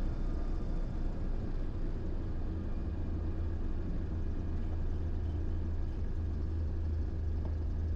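Diamond DA20 light aircraft's piston engine and propeller running at low power, heard from inside the cockpit as a steady low drone, during the ground roll after a full-stop landing.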